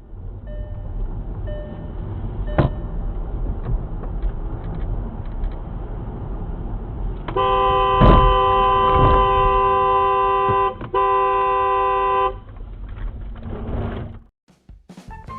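Road rumble of a moving car. A sharp knock comes about two and a half seconds in; about seven seconds in a car horn starts and is held for about five seconds with a short break near the end, and a louder thump comes just after the horn starts.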